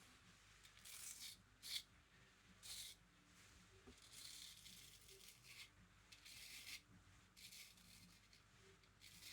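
A razor scraping through lathered stubble in a series of short strokes, about seven faint, quick scratches.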